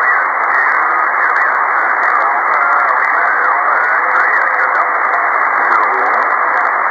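Ham radio receiver's single-sideband audio: steady band noise (static) with weak, garbled voices of other contest stations underneath. The sound is thin and telephone-like, cut off above and below by the receiver's filter.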